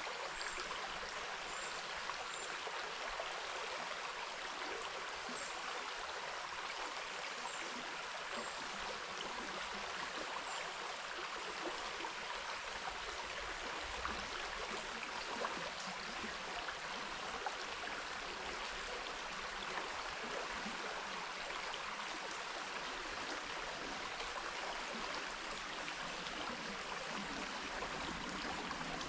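River water running over rocks: a steady, even rush of shallow flowing water.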